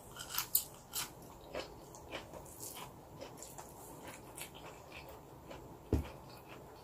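Close-miked chewing of a mouthful of rice eaten by hand: small wet mouth clicks, busiest in the first second and then sparse, with one soft low thump near the end.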